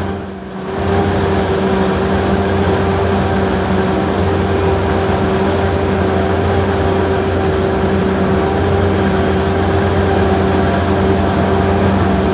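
Large diesel farm machinery engine running steadily at constant speed, with a steady hum. The level dips briefly just after the start.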